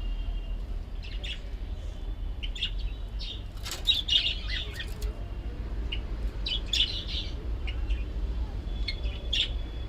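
Small birds chirping, short high calls scattered through, thickest about four and seven seconds in, over a steady low hum.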